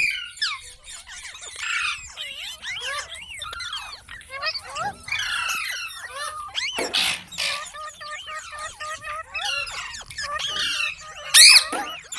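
Green parrot (Indian ringneck) chattering in a rapid string of squeaky chirps and whistles, with two louder harsh bursts, about seven seconds in and near the end.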